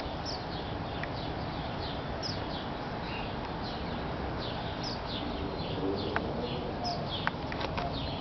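Small birds chirping over and over in short, high, falling notes over a steady background hiss, with a few sharp clicks near the end.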